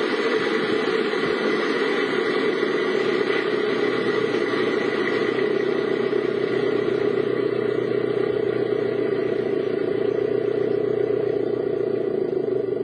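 A car running, heard from inside the cabin: a steady drone of engine and road noise.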